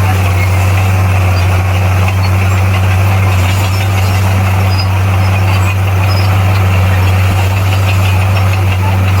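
Heavy earthmoving machine's diesel engine running steadily, with a strong, even low hum.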